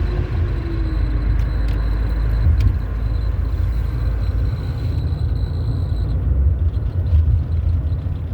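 Steady low rumble of a car on the move, heard from inside the cabin: road and engine noise while driving.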